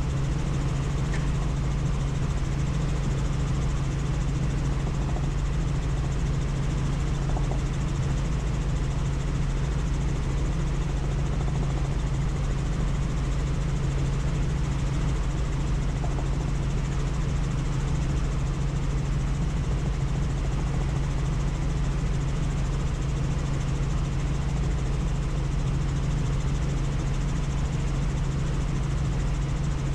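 Helicopter in flight heard from the passenger cabin: a steady drone of engine and rotor noise with a strong low hum, unchanging throughout.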